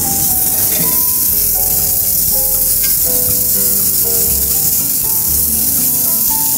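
Scallops sizzling as they sear in a very hot pan, under background music with a stepping melody.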